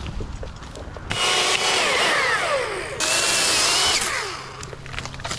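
Chainsaw running at full throttle in two bursts, the first starting about a second in, its pitch falling as the chain cuts into the wood.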